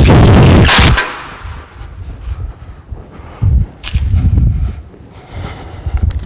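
A loud harsh burst lasting about a second at the start, then a few softer knocks, from fixing the top board to the steel workbench frame from underneath.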